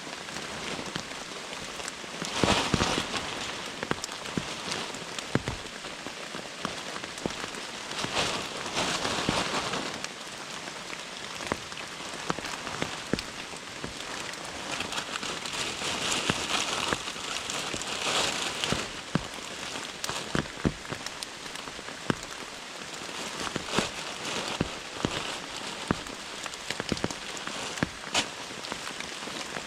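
Heavy rainforest rain, a steady hiss of rainfall with many individual drops tapping on nearby surfaces, swelling louder a few times.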